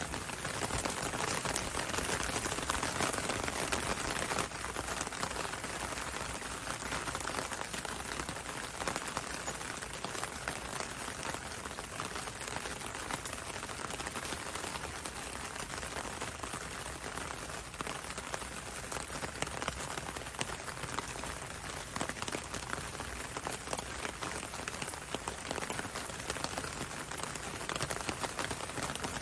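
Steady rain pattering on a window and on the road, a constant hiss dotted with the close ticks of individual drops.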